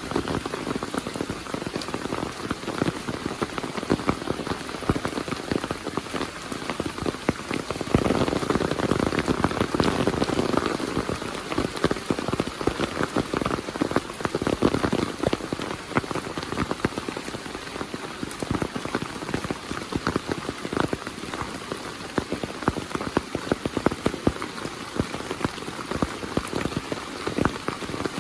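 Heavy monsoon rain falling steadily, a dense patter of many close drop impacts over a hiss of rain, swelling louder for a few seconds about eight seconds in.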